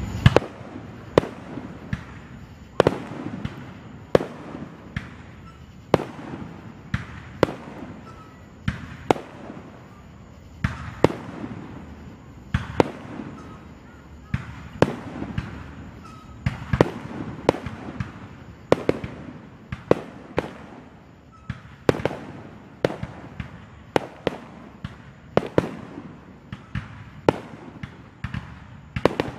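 Aerial firework shells bursting in a steady string of sharp bangs, about one to two a second, each trailing off briefly.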